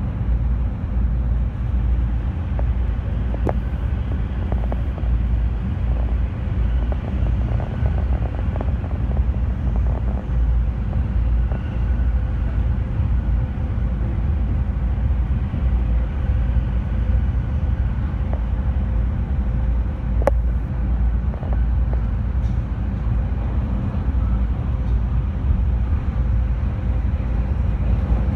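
Steady low rumble of an E217-series electric commuter train running at speed, heard from inside the carriage, with wheel-on-rail noise and a sharp click about twenty seconds in.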